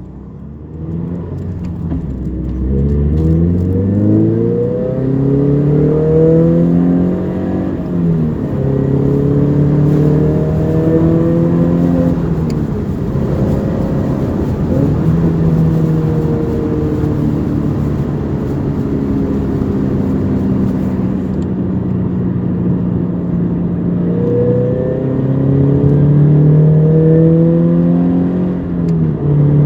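Toyota 86's flat-four boxer engine through a Trust GReddy Power Extreme aftermarket muffler, accelerating through the gears. The pitch climbs and drops back several times as it shifts up, then holds steady at cruise and climbs again near the end.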